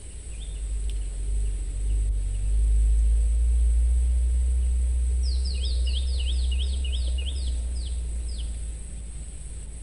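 A bird gives a quick run of about a dozen downward-sliding notes, about three or four a second, starting about five seconds in. Under it runs a steady high insect drone, and the loudest thing is a low rumble that swells over the first few seconds and fades near the end.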